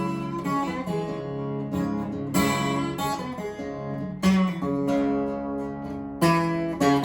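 Acoustic guitar playing a country blues introduction: picked bass notes and strummed chords, with louder strums about every two seconds.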